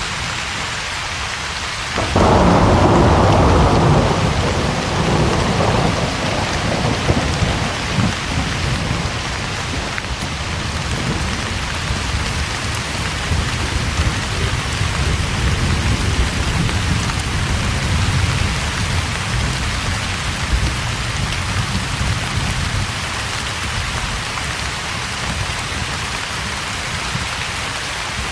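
Thunderstorm heard from inside a camper: steady rain on the roof, with a sharp thunderclap about two seconds in that rolls into a long rumble, and thunder grumbling on under the rain after it.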